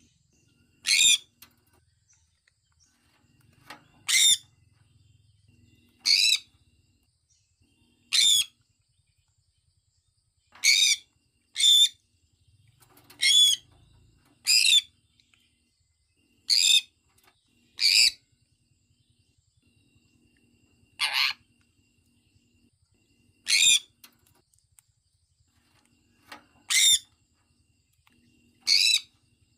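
Sun conure giving short, high calls, about one every two seconds, now and then two in quick succession.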